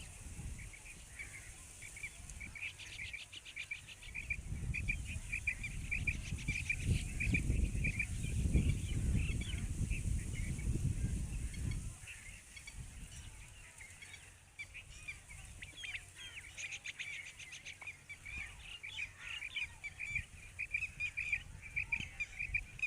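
Quail calling in quick, short repeated notes, with a low rumble in the middle stretch.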